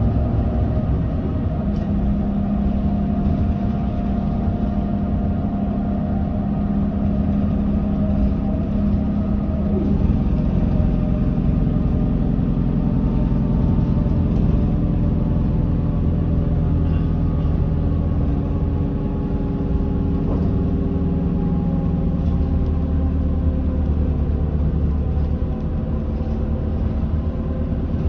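Hino Blue Ribbon city bus under way, heard from inside the cabin: a steady diesel engine drone with road rumble, its pitch shifting gently as the bus cruises.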